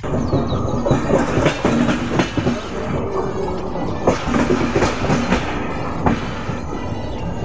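Passenger train running at speed, heard from the open coach door: a steady rumble with rapid, irregular clacks of the wheels over the rail joints.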